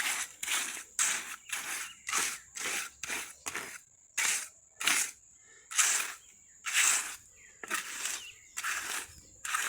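Repeated noisy scraping strokes, about two a second in a steady rhythm, with a faint steady high-pitched tone behind them.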